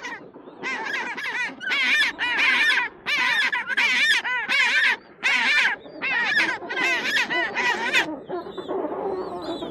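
A flock of birds calling: many overlapping short, arching calls in loud runs of about a second, with brief gaps between them.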